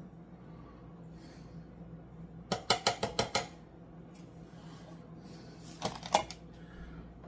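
Kitchen metal knocking: a quick run of about six sharp taps, then two or three more a few seconds later, as drained canned vegetables are knocked out into a cooking pot.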